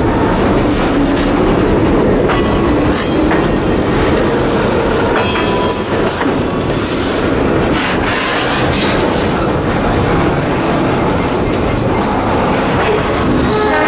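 Freight train of boxcars rolling past on rough, poorly maintained track: a steady rumble and clatter of wheels over the rail joints, with a brief wheel squeal now and then.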